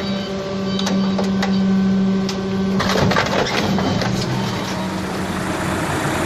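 Garbage truck compactor press running: a steady mechanical whine with scattered cracks and snaps of material being crushed. The whine stops about three seconds in and a rougher, noisier mechanical sound follows.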